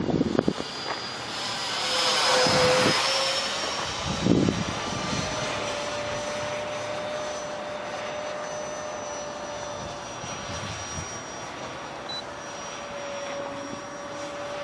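Electric ducted fan of an RC jet, a Dr Mad 68 mm unit with a 10-blade fan, whining in flight. It swells louder and bends in pitch as the jet passes about two seconds in, then settles to a steady whine.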